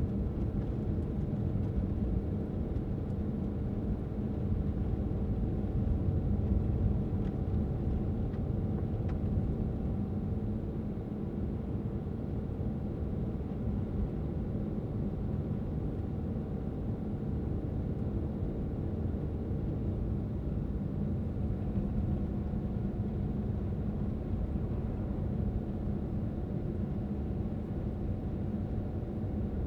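A car driving at a steady pace: a constant low rumble of road and engine noise with a steady hum over it.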